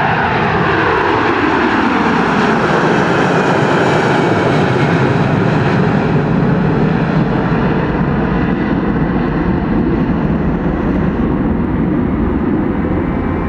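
Boeing 747-228F freighter's four jet engines at take-off power as it passes. The pitch of the engine whine drops sharply in the first couple of seconds as it goes by, and a steady, heavy roar follows as it moves away.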